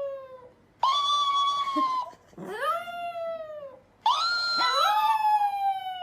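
A pet animal giving long drawn-out calls that rise and then fall in pitch: the end of one call, then three more of a second or two each, with the last the longest.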